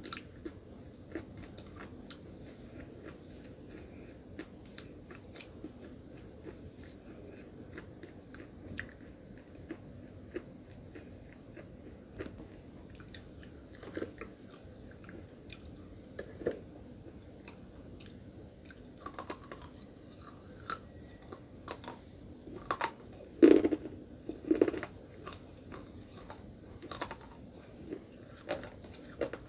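Close-up chewing and crunching of hard chalky slate pencil and nakumat sticks: a steady run of small crisp cracks and grinding bites. The loudest crunches come about three-quarters of the way through.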